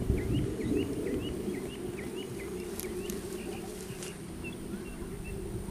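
A small bird chirping over and over, about three short calls a second, thinning out halfway through, over a steady low rumble. A few sharp clicks come about three seconds in.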